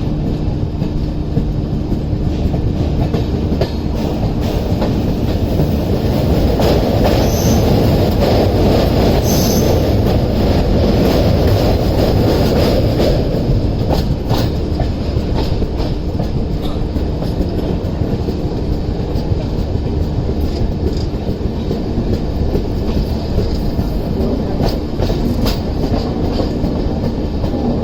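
Express passenger train running on the rails: a steady rumble with repeated clicks of the wheels over rail joints. It grows louder for several seconds in the middle, with a couple of brief high wheel squeals.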